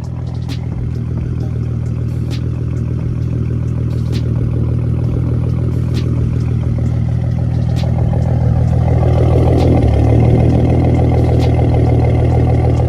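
Ford Mustang's 3.7 L V6 idling through a BBK catted X-pipe and straight pipes with no mufflers or resonators, out of quad tips. The exhaust note is deep and steady and grows gradually louder.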